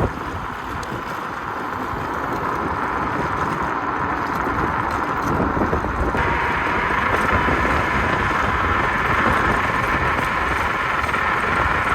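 Wind rushing over the microphone and road noise while riding a 60-volt electric scooter, with a faint steady whine. It grows gradually louder and steps up sharply about six seconds in, as the ride picks up speed.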